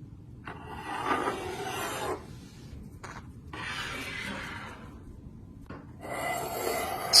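A rasping, scraping sound in three stretches of one to two seconds each, with short pauses between them.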